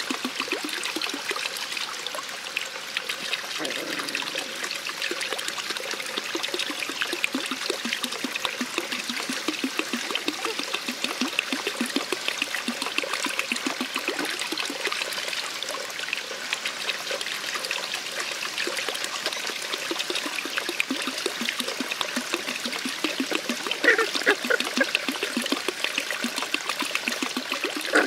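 Water trickling and splashing steadily. Near the end there are a few short, louder higher-pitched sounds.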